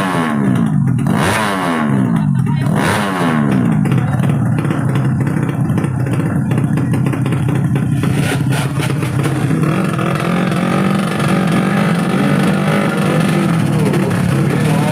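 Drag-racing motorcycle engine revved in quick repeated blips over the first few seconds, each falling back in pitch, then running at a steadier pitch.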